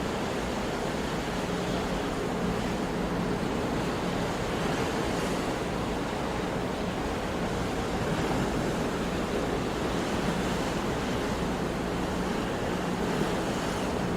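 Sea waves breaking and washing on a shore, a steady rush of surf that swells and eases slightly.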